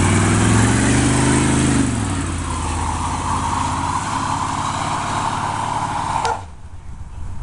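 1947 Dodge rat rod truck's engine revving up and back down, followed by a steady rushing noise of the truck under way. The sound cuts off abruptly about six seconds in.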